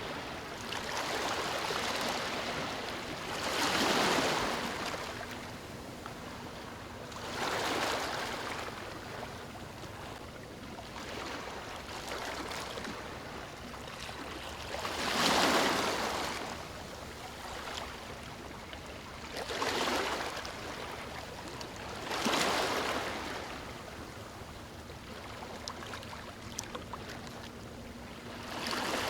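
Ocean waves breaking on a beach, a steady wash of surf with about six waves cresting and rolling in over the span, the loudest about halfway through.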